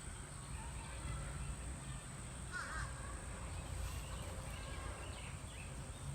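Birds calling faintly, with a short cluster of calls about two and a half seconds in, over a steady low rumble.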